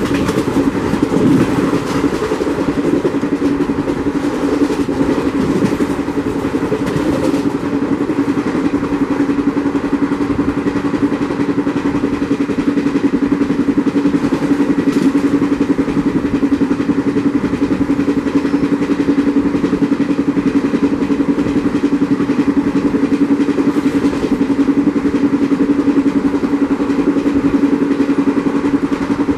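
Indian express passenger coach running at speed, heard from its open doorway: the steady rush and rumble of wheels on the rails, with a constant hum under it.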